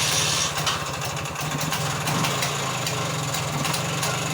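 Homemade off-road buggy's engine running steadily at idle just after starting, heard through its newly fitted handmade exhaust and silencer, with a fast even firing pulse.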